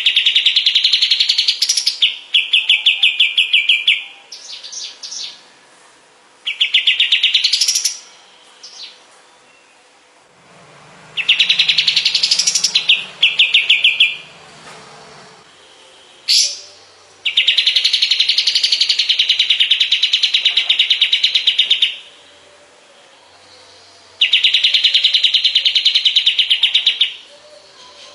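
Kapas tembak songbird singing: loud phrases of rapid, rattling trills lasting a few seconds each, with short pauses between, several ending in a quick upward sweep.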